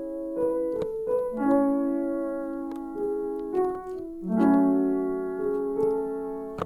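Sampled lo-fi keys from a Zak Sound plugin playing slow chords and a few single notes, each struck and left to ring out, with a faint high hiss underneath.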